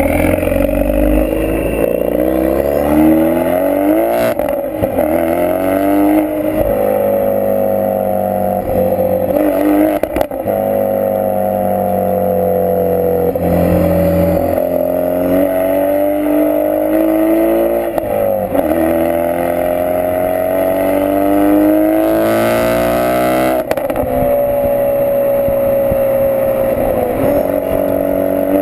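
Ford Focus RS mk3's 2.3-litre turbocharged four-cylinder breathing through a Milltek Sport decat, non-resonated exhaust, accelerating hard through the gears: the pitch climbs and then drops sharply at each upshift, about five times, with steadier stretches of cruising and easing off between the pulls.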